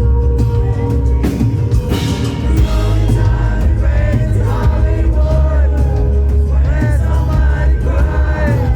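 A live band playing a country rock song, with a steady heavy bass and drums. About three and a half seconds in, a lead melody of short sliding notes comes in over the band.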